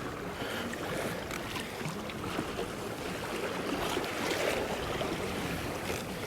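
Choppy sea water sloshing and splashing against a kayak's hull in a steady, uneven wash, with some wind.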